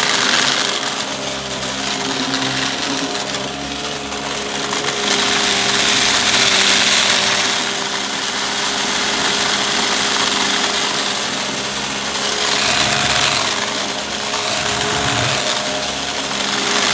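Upright vacuum cleaner running on carpet, a steady motor hum under a rushing hiss of air that swells and fades every few seconds as it is pushed back and forth.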